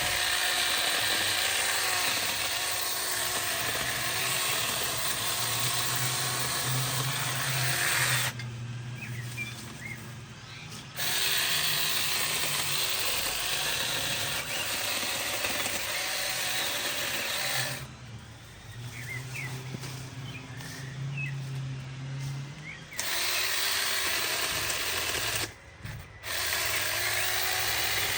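Power saw cutting wood in long runs, dropping back to a lower hum three times: twice for a few seconds, about a third of the way in and again past halfway, and once briefly near the end.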